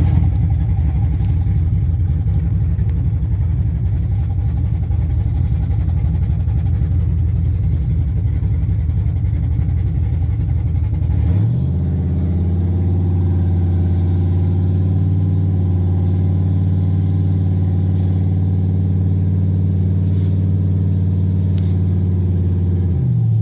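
Chevy Silverado pickup's V8 engine running steadily, freshly fitted with long-tube headers. About halfway through the pitch rises a step and holds at a higher, steady speed, then drops back near the end.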